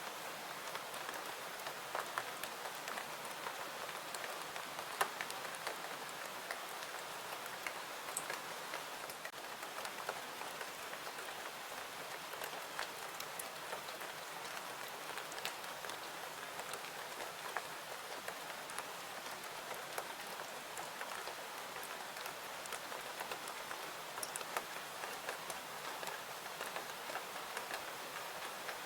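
Steady rain falling, an even hiss with scattered sharp clicks of individual drops or pops.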